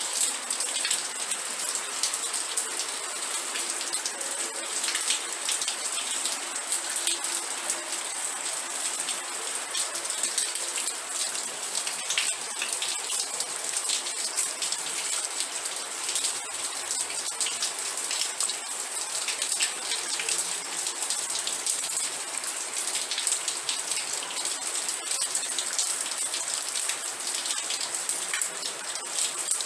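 Steady rain with dense, crackling drops striking a surface.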